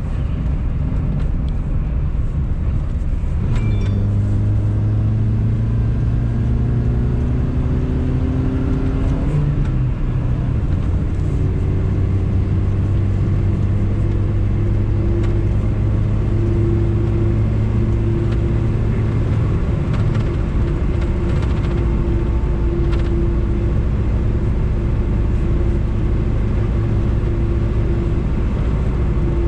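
A Lada VAZ-2108's 1.5-litre engine, heard from inside the car while driving. Its pitch rises a few seconds in, drops about ten seconds in, then holds steady over road noise.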